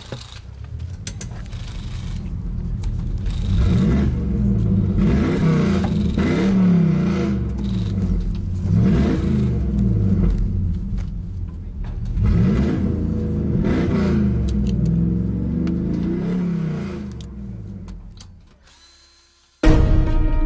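Car engine revving up and dropping back again and again, its pitch climbing and falling repeatedly. It fades in over the first few seconds and fades out near the end, where music cuts in.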